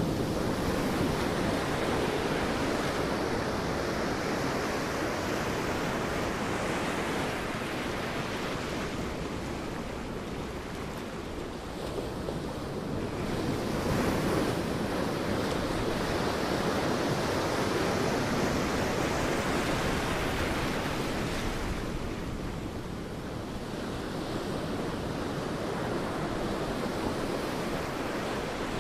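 Sea waves breaking on a beach: a steady wash of surf that swells and eases in slow surges every several seconds.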